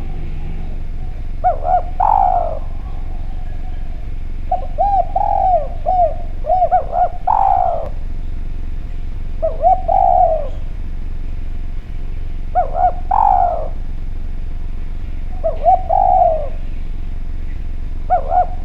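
Spotted dove (derkuku) cooing: six phrases, each a few short clear notes ending in a longer drawn-out, downward-sliding coo, spaced a few seconds apart, over a steady low background hum.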